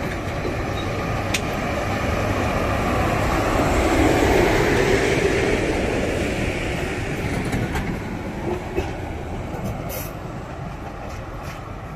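Mohanagar Godhuli Express passenger coaches rolling past on the rails, a steady rumble with a few sharp clicks from the wheels. It grows to its loudest about four seconds in, then fades as the last coach passes and the train moves away.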